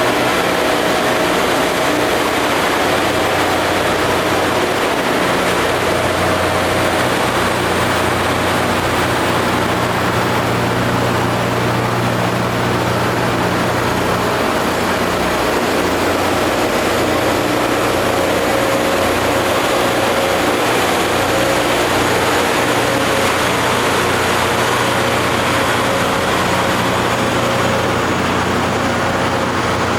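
Rail grinding machine at work: a steady engine hum under a continuous broad grinding noise, unchanging throughout.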